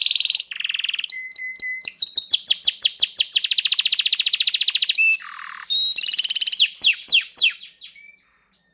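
Domestic canary singing a long, varied song: fast trills and a rapid run of repeated notes in the middle, then quick downward-sweeping notes, tailing off near the end.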